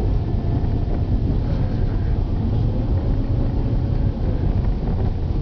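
Steady low rumble of a car driving, engine and tyre noise heard from inside the cabin, with a faint tone that slowly wavers in pitch.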